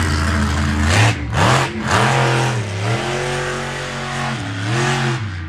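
Monster truck engine revving hard, the pitch rising and dipping several times as the throttle is worked, with sharp bursts of noise about a second in and twice more shortly after.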